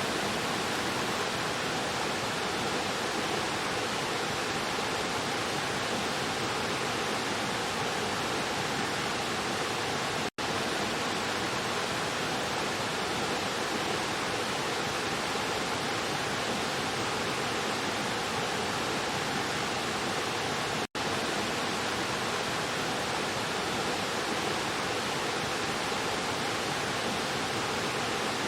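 Rushing stream splashing over rocks: a steady, even rush of water that drops out for an instant twice, about 10 and 21 seconds in.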